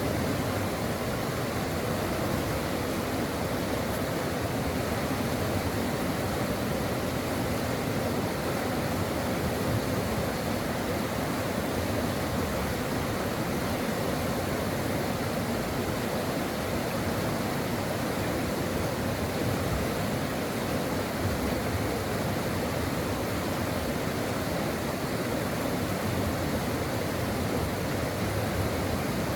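Mountain stream rushing and babbling over rocks, a steady, even flow of water with no other sounds.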